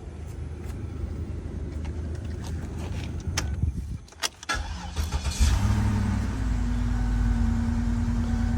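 2006 Cadillac DTS's 4.6-litre Northstar V8: a low rumble, a brief lull with a few clicks, then the engine cranks and catches about five seconds in and settles into a steady idle with a constant hum. It starts normally now that the broken and corroded wires in its harness have been repaired, curing the intermittent no-crank, no-start fault.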